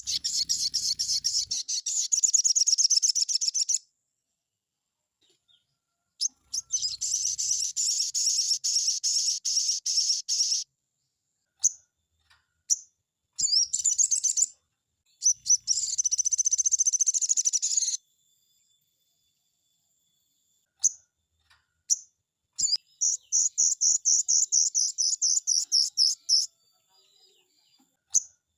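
A sogon bird singing: long bouts of fast, rattling trills, each lasting a few seconds, four of them with short single calls and pauses between.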